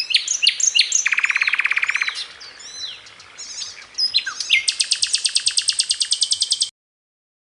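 Small songbirds on a masteran training recording: a busy run of chirps and swooping calls, with a fast, lower trill about a second in and a long, rapid high trill from about four and a half seconds. The sound cuts off suddenly near the end.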